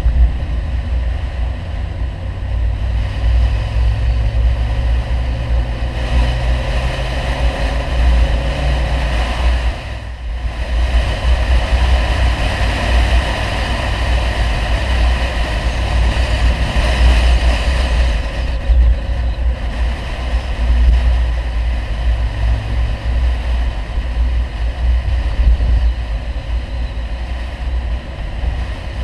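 Audi 100 2.3 quattro's inline five-cylinder engine and CAC exhaust droning on the move, heard from inside the car. The note climbs over the first several seconds, dips briefly about ten seconds in and again a little past the middle, as if between gears, then keeps running steadily.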